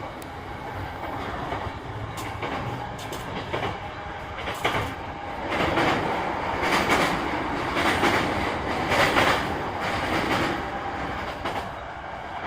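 JR East E233 series 3000 electric multiple unit running at speed, heard on board. Steady rail and running noise, with the wheels clicking over rail joints now and then. The noise grows louder for several seconds in the middle.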